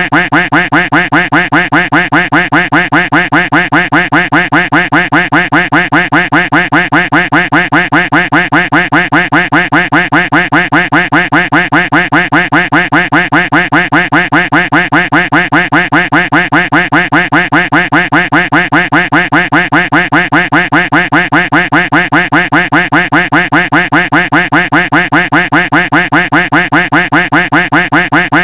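Duck quack sound effect repeated over and over in a fast, even, unbroken loop, each quack identical.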